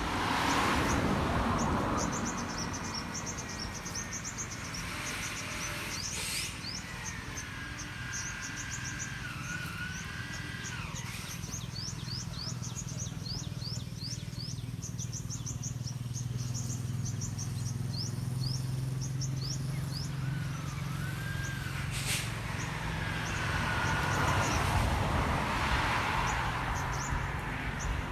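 Outdoor ambience: small birds chirping in rapid, high, repeated notes throughout, with a couple of lower whistled bird calls, over a low steady engine hum. Rushing noise of a passing vehicle swells and fades near the start and again near the end.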